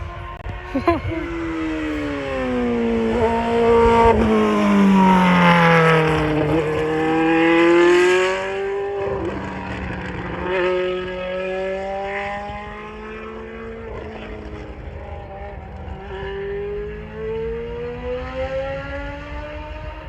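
Formula One car's high-revving racing engine passing by. Its pitch falls steeply as it goes past at the loudest point, then climbs again in steps through gear changes as it pulls away, fainter.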